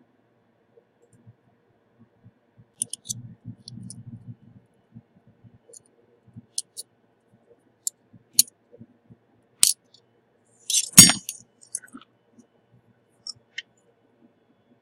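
Small metal hand tools clicking and clinking against a hard bench surface, with scattered sharp taps and a brief low rumble of handling about three seconds in. The loudest clink, with a short ring, comes about eleven seconds in.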